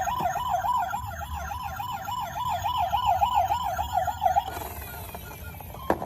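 Battery-powered toy vehicle's electronic siren, a fast warbling wail of about four to five wobbles a second. It cuts off about four and a half seconds in, followed by a couple of clicks near the end.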